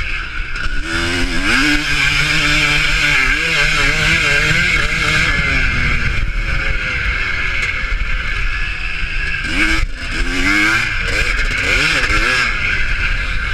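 Motocross motorcycle engines revving and passing, their pitch rising and falling several times, over a loud steady rush of engine and exhaust noise.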